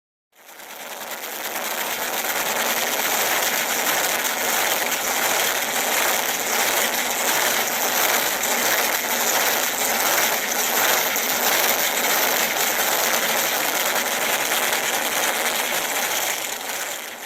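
Toy Hot Wheels monster trucks rolling over a rough surface: a steady, gritty rattle of small plastic wheels that fades in and fades out again.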